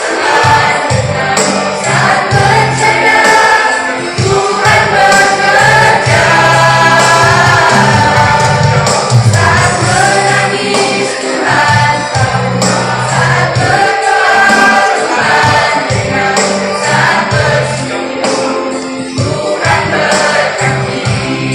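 A youth church choir singing a Christian song over musical accompaniment with a low bass line and a steady beat.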